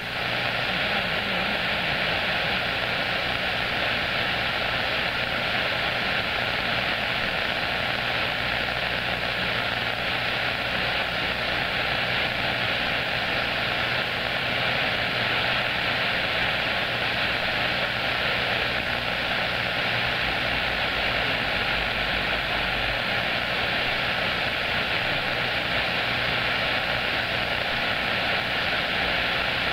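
Steady hiss of static from a CB radio receiver tuned to 27.025 MHz with no one talking, with a faint steady tone under the hiss.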